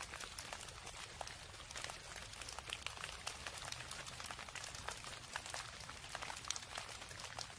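Steady rain, with many separate drops ticking sharply at irregular intervals.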